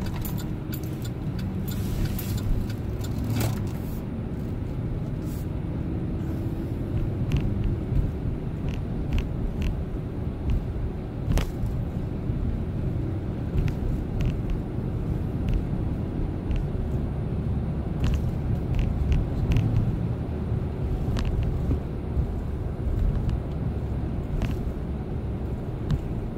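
Chevrolet Silverado pickup truck driving: a steady low engine and road rumble, with scattered short clicks and knocks over it.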